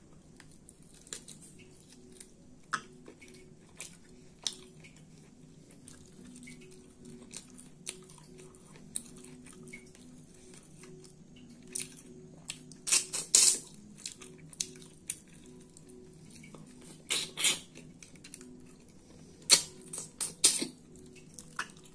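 Close-up eating sounds: wet chewing and lip-smacking as soft khichdi and mutton curry are eaten by hand, with scattered clicks and a few louder smacks in the second half.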